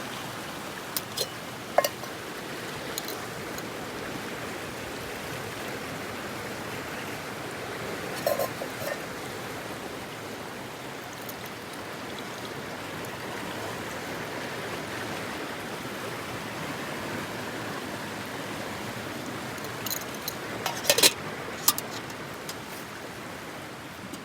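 A mountain stream flowing steadily, with a few sharp clicks and knocks over it, the loudest cluster near the end.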